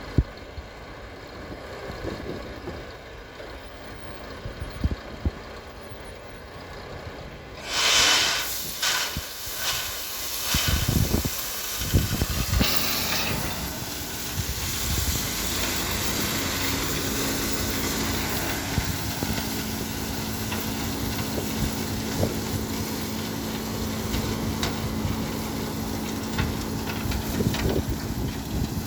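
Heavy truck running, with loud bursts of hissing about eight and twelve seconds in, then a steady engine hum.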